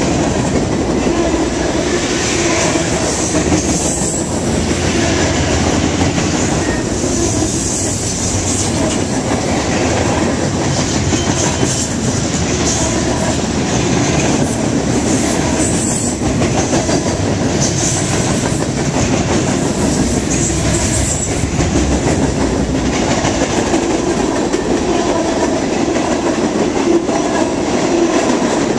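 Cars of a Norfolk Southern mixed freight train rolling past close by: a steady, loud rumble with the clickety-clack of wheels over rail joints, and a high metallic wheel squeal that comes and goes.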